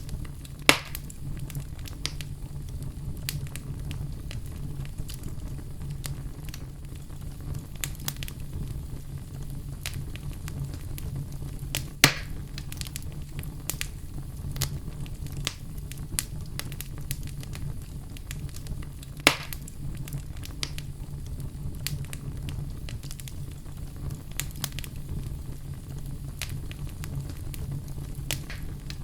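Wood fire crackling in a fireplace: a steady low rumble under frequent small crackles, with three louder sharp pops, about a second in, around twelve seconds in and about nineteen seconds in.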